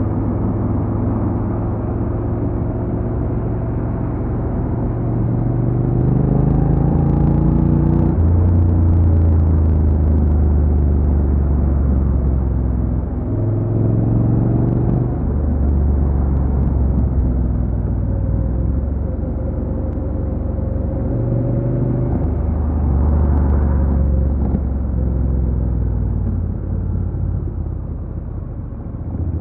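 Honda NC750X parallel-twin engine running under way. The revs climb and then drop sharply several times as it changes gear.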